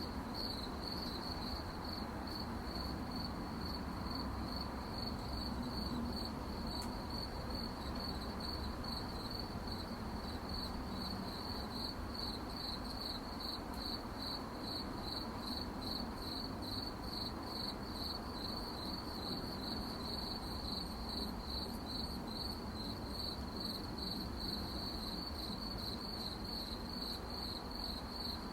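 Crickets chirping at night in a continuous, even chorus of rapid high-pitched pulses, over a soft steady background hiss.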